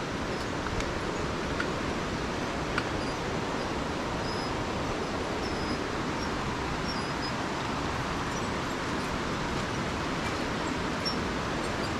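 Rainforest outdoor ambience: a steady, even rushing noise, with faint short high chirps scattered through it.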